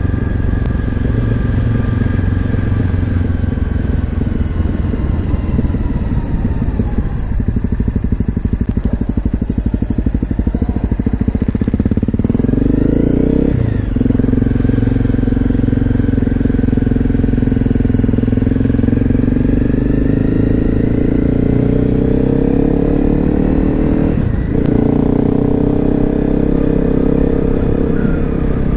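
Honda CRF250L's single-cylinder four-stroke engine running through an FMF Q4 exhaust while the bike is ridden, the pitch climbing as it accelerates. Two gear changes cut the note short, about 14 seconds in and again near 24 seconds, each followed by another climb.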